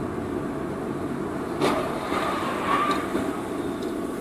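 Steady rumbling noise of a moving vehicle, with one sharp knock about one and a half seconds in and a faint squeal shortly after.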